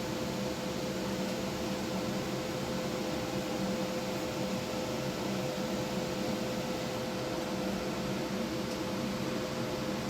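TIG welding arc on stainless steel exhaust tubing: a steady hiss with a constant electrical hum, the welder's pulse setting switched off.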